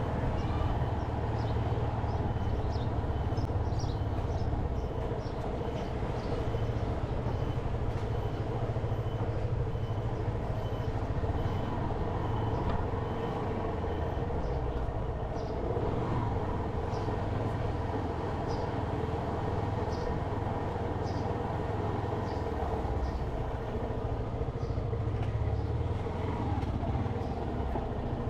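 Motorcycle running steadily at riding speed: a continuous low engine rumble mixed with road noise.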